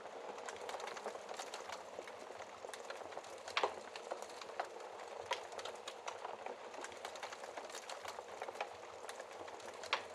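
Wood fire crackling in a fireplace: a steady hiss of burning with many small irregular pops and snaps, and a sharper pop about three and a half seconds in and another near the end.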